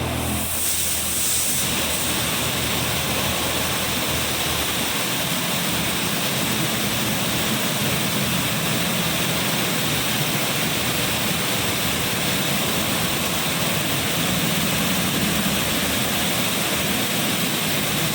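High-pressure water jets of a touch-free automatic car wash spraying steadily over the car, a loud, even rush that does not let up.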